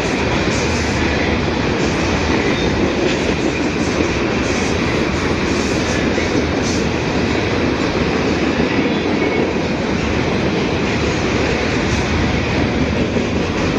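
Two CN freight trains passing each other on adjacent tracks: a steady, loud rolling rattle of freight cars, with a few faint clicks of wheels over the rails.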